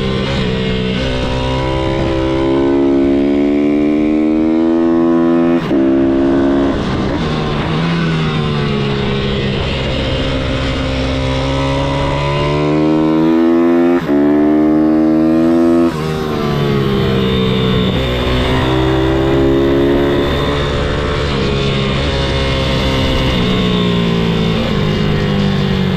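MRF 160-R SM pitbike's single-cylinder engine revving hard, its pitch climbing and falling through the gears. The sound cuts briefly at gear changes, about six seconds in and again around fourteen and sixteen seconds in.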